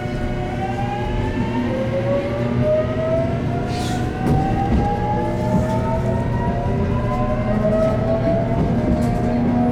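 JR Kyushu 813 series electric train accelerating, its VVVF inverter-controlled traction motors giving a whine of several tones that rise steadily in pitch, over the low rumble of the running gear.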